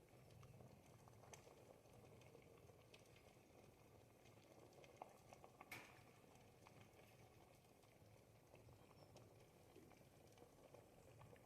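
Thick ribollita soup simmering in a pot, faint bubbles popping softly and unevenly, with one sharper pop about six seconds in.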